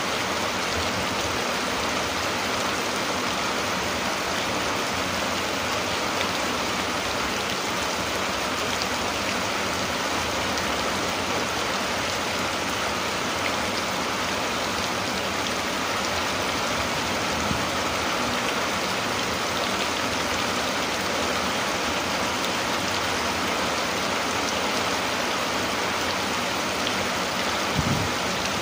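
Steady rain falling, an even hiss with no letup. A brief low thump near the end.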